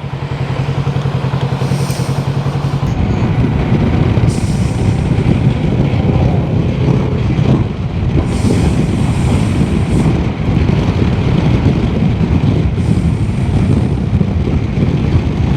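Motorcycle engine running while riding, its steady hum turning louder and rougher about three seconds in as it pulls away.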